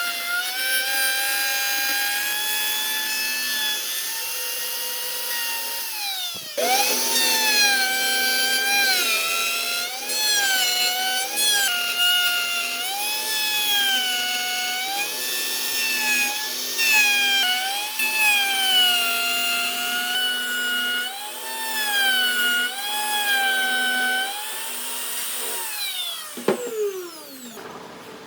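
Handheld electric power tool working wood: a high motor whine whose pitch sags and recovers again and again as it is pressed into the wood. It cuts out briefly about six seconds in. Near the end it is switched off and winds down in a falling whine.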